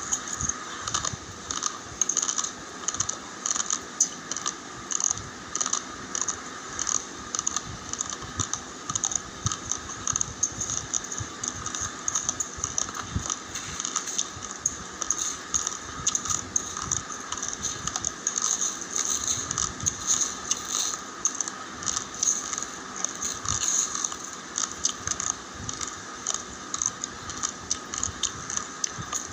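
Raw, uncooked long-grain rice being crunched between the teeth: crisp, irregular cracks about once or twice a second over a steady background hiss.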